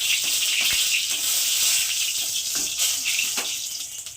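Two dried red chillies frying in hot mustard oil in a kadai: a steady, loud sizzle with scattered crackles, dying away near the end.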